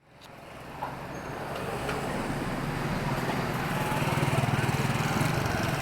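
A motor vehicle's engine running in street traffic, fading in from silence and growing louder to a peak about two-thirds of the way through, with a steady low engine note.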